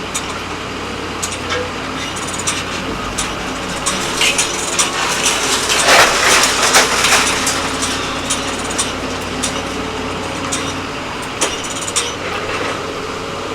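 Engine of a hydraulic scrap-metal crusher running steadily, with scattered metal clanks and cracks and a louder stretch of crunching about halfway through as metal is crushed.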